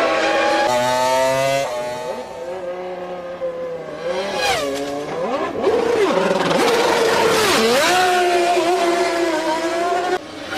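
Formula One car's V10 engine revving, its pitch rising and falling several times, with a short burst of noise about four and a half seconds in. The sound cuts off abruptly near the end.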